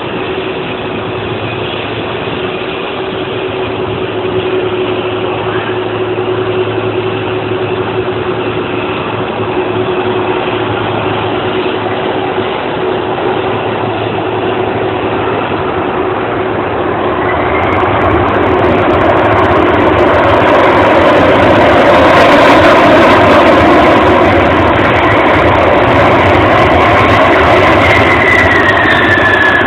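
Jet engines of a Boeing 747-400ER (four General Electric CF6-80C2 turbofans) on a landing approach: a steady engine noise that grows louder from about halfway through and stays loud, with a whine that drops in pitch near the end as the airliner passes.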